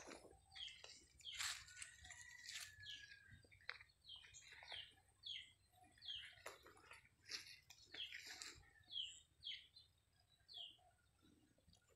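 Faint birds chirping: a series of short, falling chirps repeated irregularly, with one longer whistled note early on.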